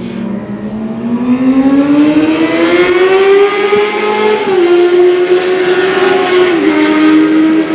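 Racing motorcycle engine accelerating hard, its note climbing steadily and then dropping sharply twice, about four and a half and six and a half seconds in, as it shifts up a gear.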